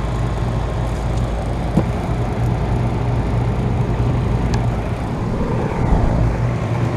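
A 2012 Bryant Legacy air-conditioner condensing unit running: a steady low compressor hum under the even rush of the condenser fan. The compressor is plainly audible.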